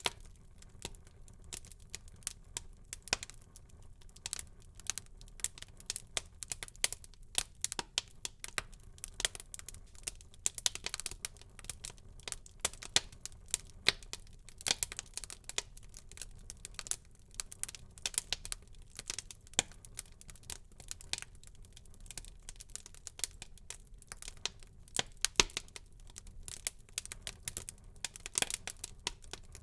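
Fire burning in a fireplace, crackling steadily with many irregular sharp snaps and pops.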